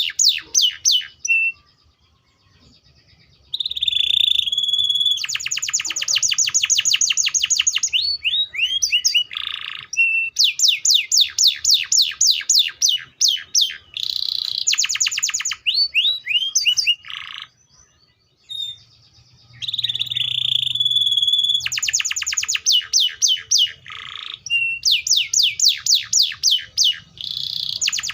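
Domestic canary singing a long song of fast trills of repeated notes mixed with held whistled notes and a few sliding notes, broken by two short pauses, one about two seconds in and one just past the middle.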